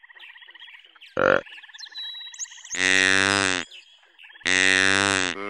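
Deer calling: a short low call about a second in, then two long, loud, low-pitched bleating calls about a second and a half apart, with another starting at the end. A steady, pulsing high trill runs underneath.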